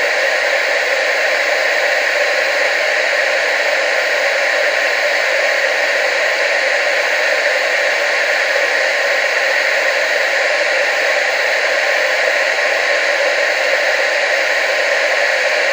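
Analog TV static: a steady, loud hiss with most of its energy in the middle and upper range and little bass, unchanging throughout.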